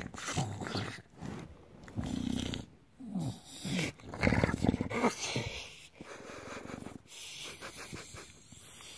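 English bulldog making a run of irregular throaty noises in short bursts with brief pauses.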